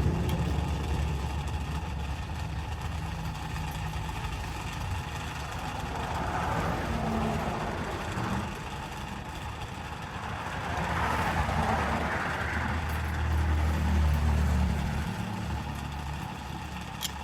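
A machine motor running steadily, with two swells of hissing noise, about six and eleven seconds in, as something is worked against it.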